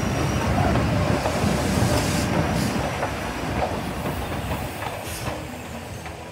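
Passenger train coaches rolling past close by, their wheels clattering over the rail joints. Louder in the first two or three seconds, then easing off.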